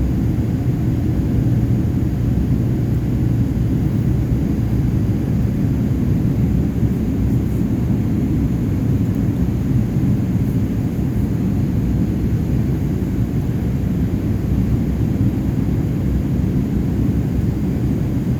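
Steady low rumble of a Boeing 787-8 heard from inside the passenger cabin: engine and airflow noise, holding even throughout.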